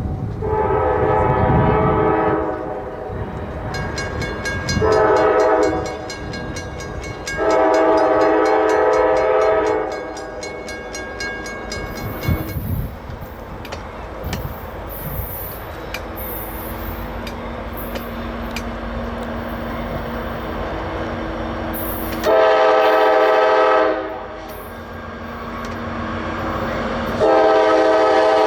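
Freight train led by a GE AC44C6M diesel locomotive sounding its multi-chime air horn in five blasts, three in the first ten seconds and two more near the end, over the steady rumble of the train rolling by. Between the blasts come short high squeals from the wheels in the curve.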